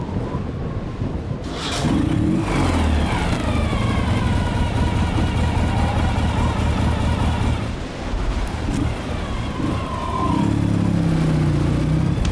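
Ural sidecar motorcycle's 750cc boxer twin engine revving as it pulls through deep snow: it rises in pitch about two seconds in, holds steady, eases off around eight seconds and revs up again near the end.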